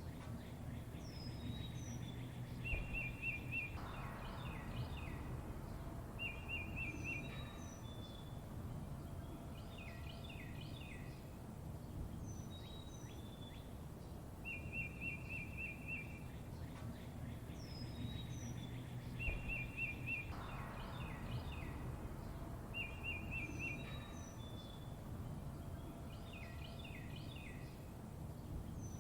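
Songbirds chirping: short rapid trills, high whistled notes and quick falling chirps, over a steady low background rumble. The same sequence of calls comes round again about every 15 seconds.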